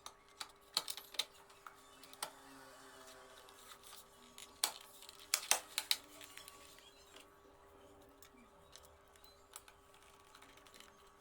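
Scattered sharp clicks and taps of the monitor's hard plastic parts being handled and fitted together during reassembly. They come in a cluster at the start and another about halfway through, then thin out to faint ticks.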